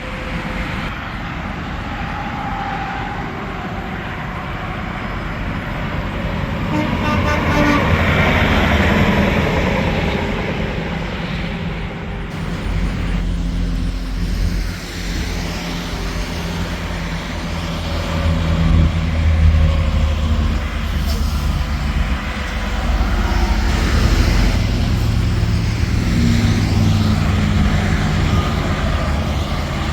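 Interstate traffic passing: tractor-trailers' diesel engines and tyre roar go by one after another, with a heavier low rumble building around the middle and staying to the end.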